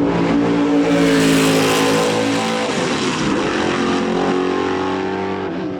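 Race car engine running hard on track, a steady multi-toned engine note with tyre and air noise, loudest about one to two seconds in as the car comes past, then easing slightly near the end.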